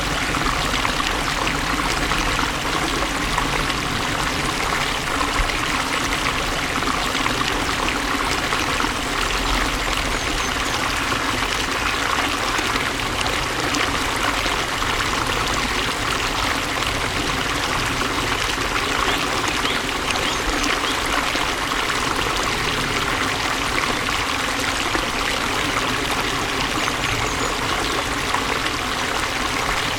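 Flowing water running steadily, an even rush that does not change.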